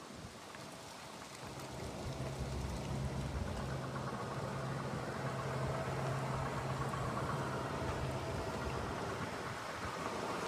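1977 Cadillac Eldorado Biarritz's V8 engine running with a steady low hum, over an even hiss; the hum sets in about a second and a half in and fades out shortly before the end.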